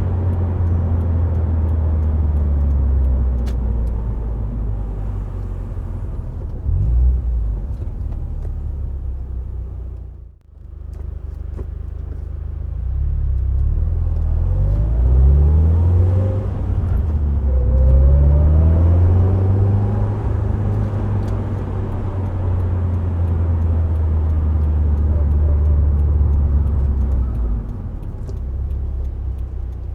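Subaru WRX STI Spec C's turbocharged flat-four with an aftermarket A-RM muffler, driving on the expressway: a steady low engine drone, briefly dropping out about ten seconds in, then rising in pitch twice under acceleration before settling back to a steady cruise.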